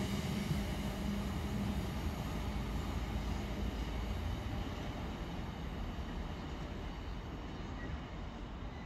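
A train running away, its rumble and humming tones fading steadily as it moves off.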